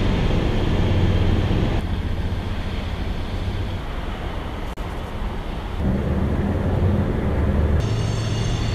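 Freight train in a rail yard: cars rolling past over a steady low rumble of locomotive engines, the sound changing abruptly several times as short clips are cut together. Near the end a high whine of several tones joins in.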